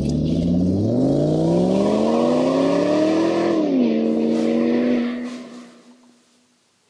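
Oil-film strength test rig running with a loud mechanical whine. Its pitch climbs for a couple of seconds, drops suddenly, then holds before the machine dies away about five seconds in.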